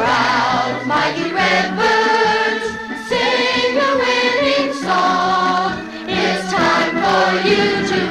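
Children's school choir singing with organ accompaniment, in full voice with vibrato on held notes.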